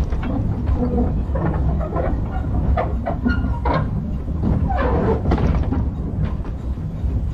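Narrow-gauge steam train running along the track, behind the Orenstein & Koppel 0-4-0 tank engine Montalban: a steady low rumble with scattered clicks and some brief higher wavering sounds.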